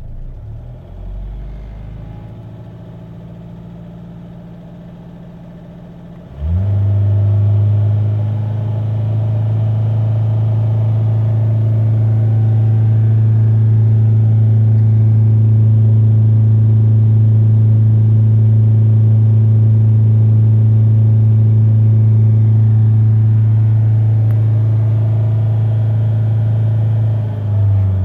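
Citroën C5 2.0 HDi four-cylinder turbodiesel idling, then revved sharply about six seconds in and held at a steady raised speed for about twenty seconds before dropping back near the end. The owner hears it as too loud, with a ticking that he places around the injectors but cannot pin down.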